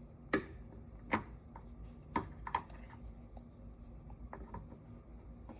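A few light clicks and knocks spaced irregularly, a second or so apart, from handling and fitting a replacement liftgate gas strut.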